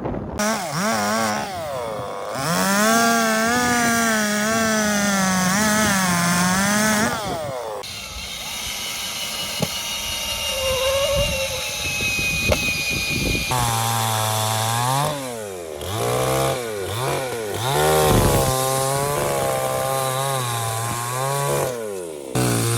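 Chainsaw running and cutting wooden posts, its engine pitch rising and falling as it revs and bogs in the cut. The sound breaks off abruptly several times, with a quieter stretch in the middle.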